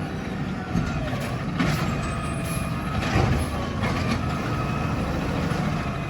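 A heavy truck running with a steady low rumble, broken by a few short sharp hisses or clanks.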